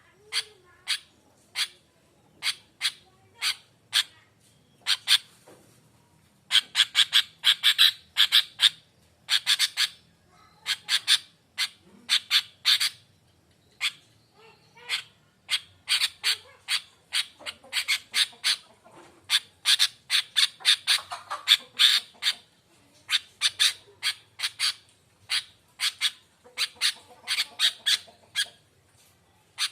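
Sooty-headed bulbul (kutilang) calling: short, sharp chattering notes, at first about one a second, then quickening into rapid bursts of several notes in a row from about six seconds in.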